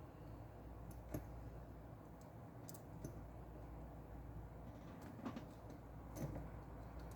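Faint, scattered clicks and taps of small phone parts and tools being handled during reassembly, about five in all, over a steady low hum.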